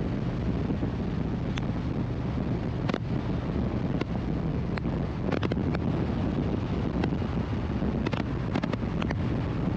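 Wind rushing and buffeting on the microphone of a Harley-Davidson Road Glide Limited riding at road speed, with the engine's low, steady drone underneath.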